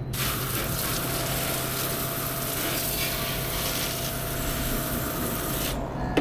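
A steady rushing hiss over a continuous machine hum; the hiss cuts in at once and stops shortly before the end while the hum runs on.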